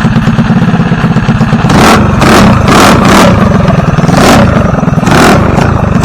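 A car engine idling with a loud, pulsing rumble, then revved in a run of quick blips, about six of them, from a couple of seconds in.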